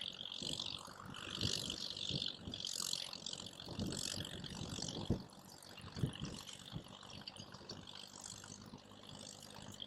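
Wood campfire crackling and popping, with surges of hiss and a run of small clicks, and two louder pops about five and six seconds in.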